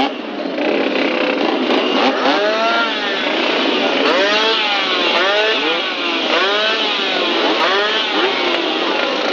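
Old engines running loud, with quick rising-and-falling revs, about two a second, over a steady engine noise from about two seconds in.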